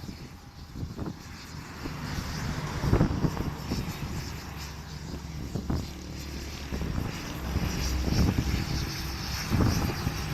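Aircraft engine noise at an airport, a low steady hum that grows louder over several seconds as the plane nears.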